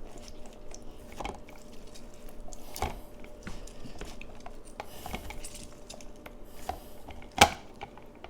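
A grapefruit being juiced by hand: squishing with scattered knocks and clinks of kitchenware, the loudest knock near the end.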